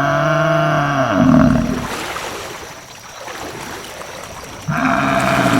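A cow mooing: one long, low moo that fades about two seconds in, then a second moo starting near the end.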